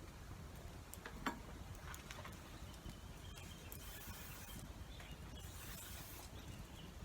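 Rain ambience under a shelter: a steady low rain noise with scattered sharp drips or pops, the loudest about a second in, and two short hissing swells about 4 and 6 seconds in.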